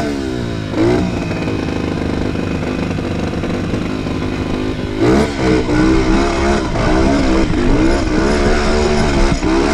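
Trail motorcycle engine revving. The pitch drops back about a second in and holds fairly steady for a few seconds, then rises and falls again and again from about halfway, as the throttle is worked.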